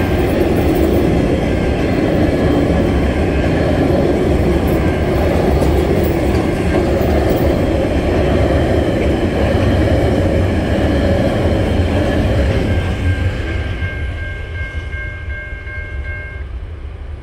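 Freight train's loaded container wagons rolling past: a loud, steady rumble of wheels on rail with some clickety-clack, fading from about thirteen seconds in as the end of the train passes. As the rumble fades, a steady high two-note tone sounds for a few seconds.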